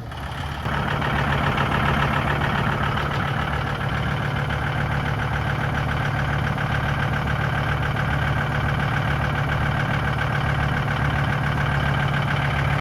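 John Deere 5225 tractor's three-cylinder diesel engine running steadily, after a brief dip in level at the start.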